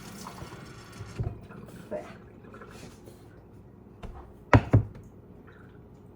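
Things being handled and set down on a kitchen counter: a few light knocks, then two sharp clacks in quick succession about four and a half seconds in.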